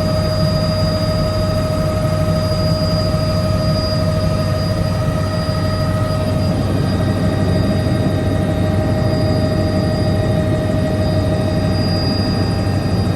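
Helicopter in flight: a steady drone of rotor and engine under a constant high whine.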